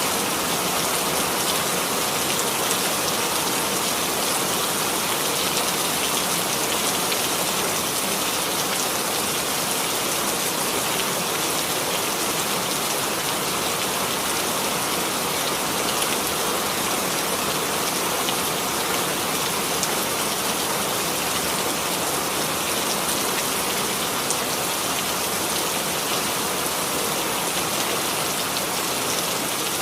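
Steady rainfall, dense drops pattering evenly on a surface without pause or change.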